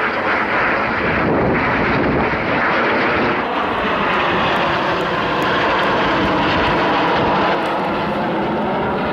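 Canadian Snowbirds' CT-114 Tutor jets flying past, a loud, steady jet noise that eases slightly near the end.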